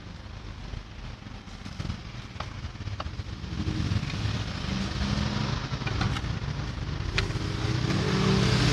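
A motor vehicle engine running, growing steadily louder through the second half, with a few light clicks.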